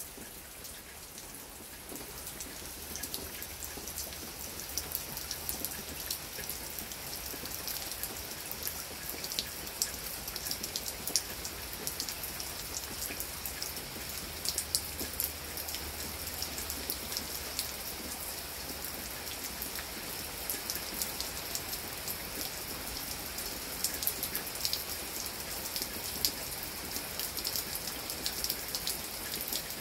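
Heavy rain falling steadily, a constant hiss with many sharp ticks of single drops striking close by.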